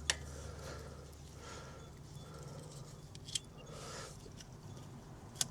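Faint sharp clicks and soft scuffing as an improvised tool is tried on the Vespa GT 200's tight oil filter without getting a grip, three clicks standing out: one at the start, one about midway, one near the end.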